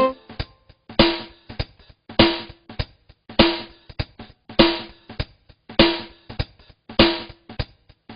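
Background music reduced to a drum-kit beat: a strong snare-like hit about every 1.2 seconds with lighter drum hits in between, steady throughout.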